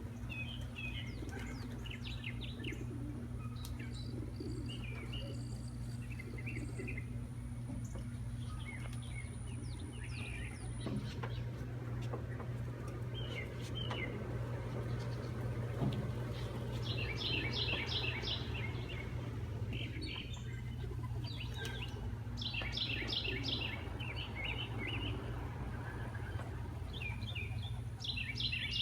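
Small birds chirping and twittering, with quick runs of rapidly repeated notes in the second half, over a steady low hum.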